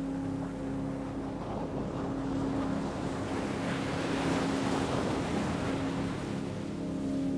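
An ocean wave rushing in, swelling to a peak about halfway through and then washing back, over a steady low drone.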